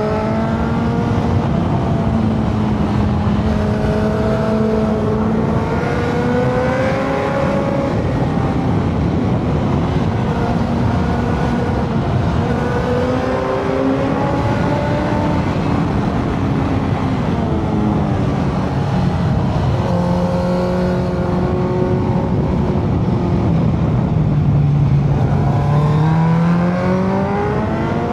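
Motorcycle engine running under way, its pitch rising as it accelerates and dropping back at gear changes or when it eases off, several times over.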